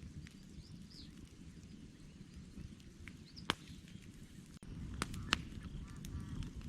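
Wood campfire burning with a low steady rumble and sharp crackles and pops, the loudest about three and a half seconds in and twice around five seconds in; the rumble grows louder just past halfway. A bird calls faintly now and then.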